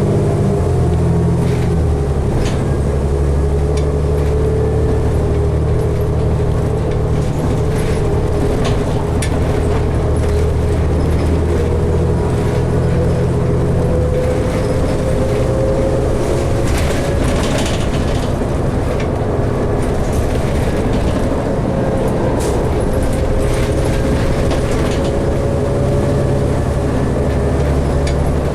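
Inside a 2012 New Flyer D60LFR articulated diesel bus under way: a steady engine drone with road noise, a faint whine that slowly rises in pitch, and scattered rattles and clicks from the body. The engine's low hum changes about halfway through.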